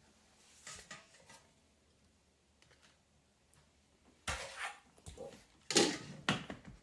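Kitchen handling sounds as dry papads are laid out on a plate: faint ticks at first, then a few sharp knocks and crisp rustles, the loudest about four and six seconds in.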